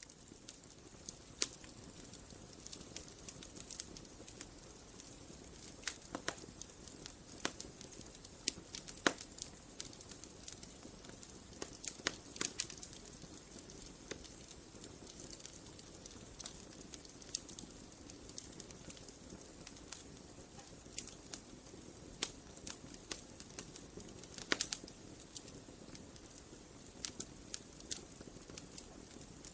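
Wood fire crackling: irregular sharp pops and snaps over a steady soft hiss of burning wood, with a few louder snaps scattered through.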